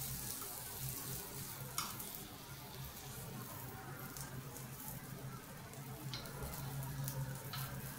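Egg ponganalu batter frying in oil in the hollows of a gunta ponganalu (paniyaram) pan, with a steady sizzle. A few light clicks of a metal spoon against the pan come as the pieces are turned over, about two seconds in and again near the end.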